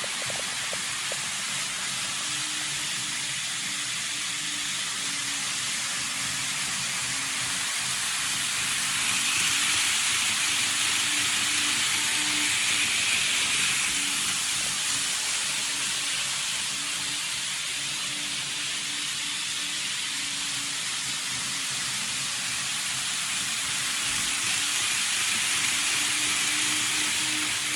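N-gauge model Shinkansen trains (an N700 series and a Doctor Yellow 923) running on the track: a steady hissing whir of wheels on rail with a faint on-off motor hum. It swells louder twice as the trains come close.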